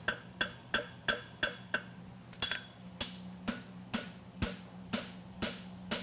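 Farrier's hammer striking a freshly forge-welded steel horseshoe on the corner of the anvil to close the toe weld seams. The blows come about three a second, slowing to about two a second after halfway, each with a short metallic ring. A steady low hum runs underneath.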